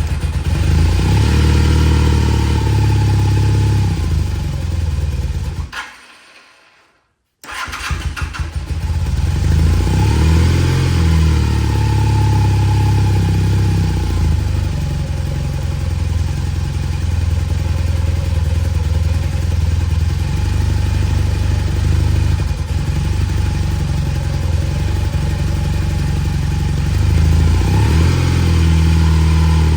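1985 Honda CB450SC's air-cooled parallel twin running on a cold start after sitting several weeks. About six seconds in it fades and dies out, then after a brief silence it is running again and keeps going steadily.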